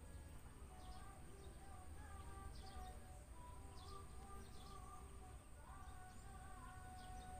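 Faint rural ambience with distant birds chirping in short repeated calls.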